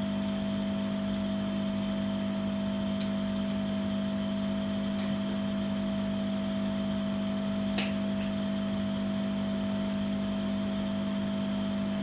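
Steady machine hum, like a small fan or motor running, with a few faint light clicks, the clearest about eight seconds in.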